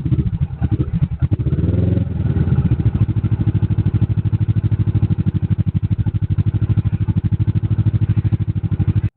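Kawasaki Vulcan S parallel-twin motorcycle engine running. It is blipped briefly about a second in, rising and falling in pitch, then idles steadily with an even, rapid pulse.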